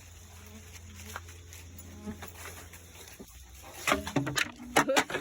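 An outdoor music-garden percussion instrument called "Tree Song" being played: faint tones at first, then several sharp strikes in quick succession starting about four seconds in, each with a short pitched ring.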